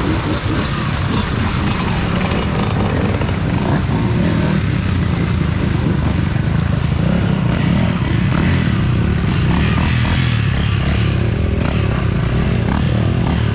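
Off-road motorcycle engines running, a steady low drone without clear revving.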